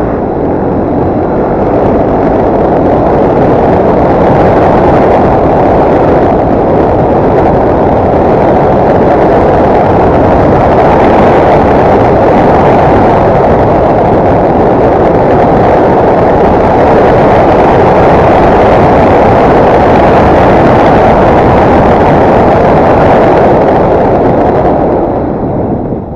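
Yamaha TT250R's single-cylinder four-stroke engine running as the motorcycle is ridden at speed, mostly buried under a loud, even rush of wind on the microphone. It swells up over the first couple of seconds and dies down near the end.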